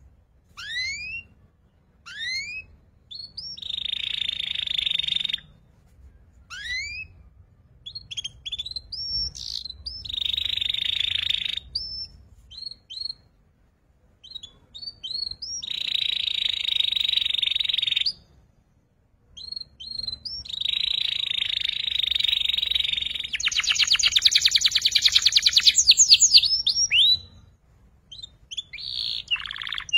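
Young domestic canary singing. Short rising whistled notes alternate with long buzzing trills, and a rapid rattling trill comes about three quarters of the way through.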